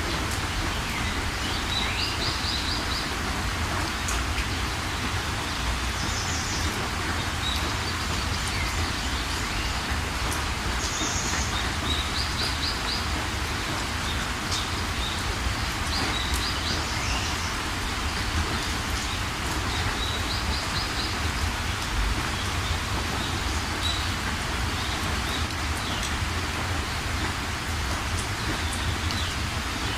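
Steady heavy rain falling, with a bird chirping in short, quick high trills every few seconds over the rain.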